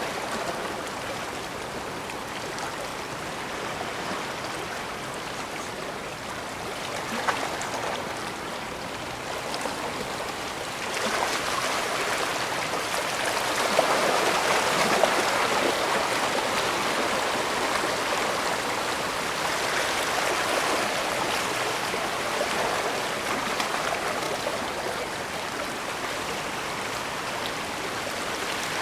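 Bay water washing against the shore in a steady rush, swelling louder about eleven seconds in and then slowly easing off.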